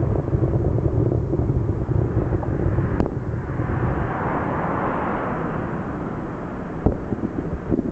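Large aerial fireworks display heard from far off: a continuous rumble of many shells bursting over one another, with a sharp crack about three seconds in and separate booms standing out near the end.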